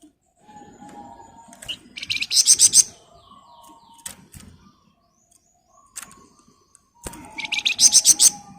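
Flamboyan songbird singing: two loud, fast rattling trills of rapidly repeated high notes, each about a second long, with softer chirps and calls between them.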